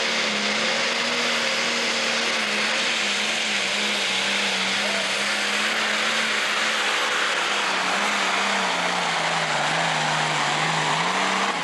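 Pro stock pulling tractor's turbocharged diesel engine at full throttle, dragging the weight-transfer sled down the track. Its note holds steady, drops lower about eight and a half seconds in as the sled's load builds, and picks up again near the end.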